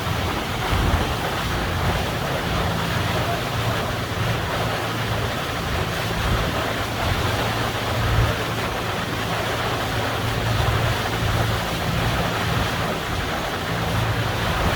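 Steady low engine drone of a boat crossing the river, mixed with rushing water and wind buffeting the microphone.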